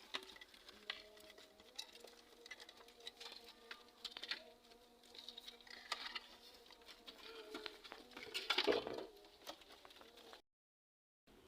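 Caged lovebirds: scattered small clicks and scratching, with a few short chirps. The sound cuts out for about a second near the end.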